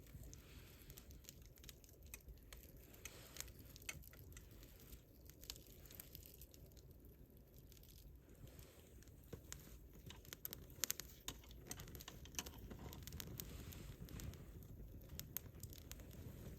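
Wood campfire crackling: scattered sharp pops and snaps over a low steady rumble, with one louder pop about eleven seconds in.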